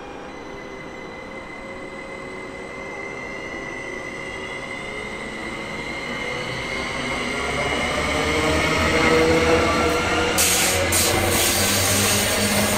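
A train approaching and growing steadily louder, with high whining tones. From about ten seconds in, the loud rumble and rattle of its wheels on the rails sets in as it draws level.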